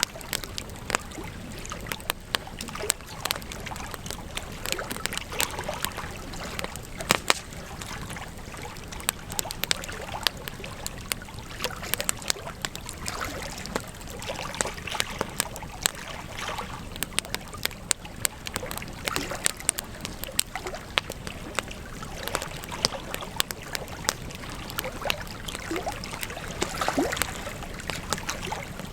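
Wood campfire crackling, with frequent irregular sharp pops and snaps over a steady hiss of burning.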